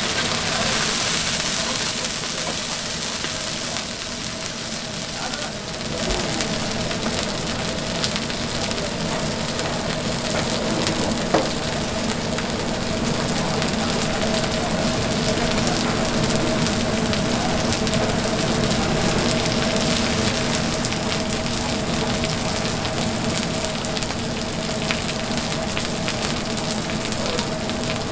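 Mung bean pancakes (bindaetteok) sizzling and crackling in oil on a flat griddle, a steady frying hiss. A single sharp knock about eleven seconds in.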